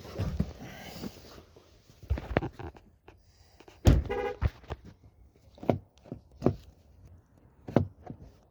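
A series of separate knocks and thumps, about six spread over several seconds, with a brief squeak right after the loudest knock near the middle, from handling around a parked SUV's cabin and doors.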